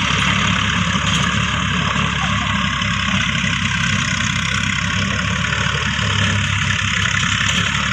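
An engine idling steadily: a low, even rumble with a hiss above it.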